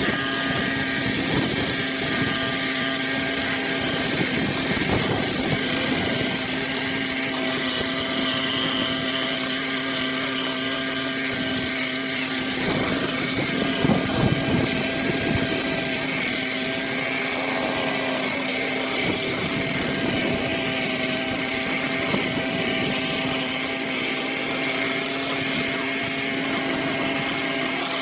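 A motor or small engine running steadily, its even hum of constant tones over a broad hiss, with a rougher, louder stretch about halfway through.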